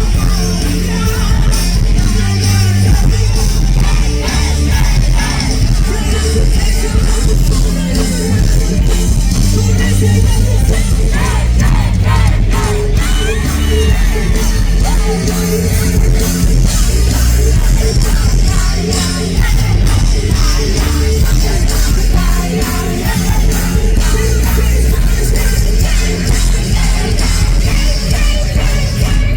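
Rock band playing loudly live: drums, bass and guitars in full flow with a singer's voice over them.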